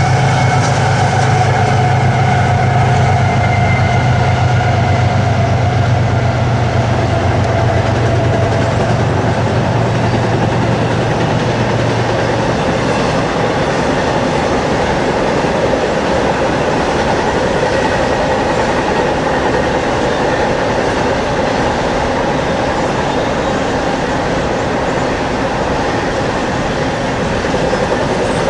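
Train passing close: a loud, steady engine drone with a slowly falling whine for about the first twelve seconds, then the cars rolling by with a steady rumble and wheel clatter.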